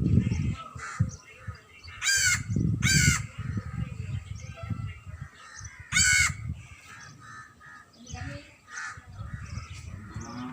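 Crows cawing, with three loud harsh caws about two, three and six seconds in and fainter calls between them. An irregular low rumbling noise runs underneath.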